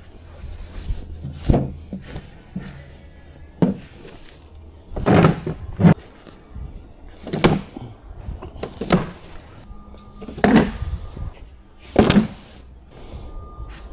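Repeated knocks and clunks of hard items being handled and set down, one every second or two, with scraping between them.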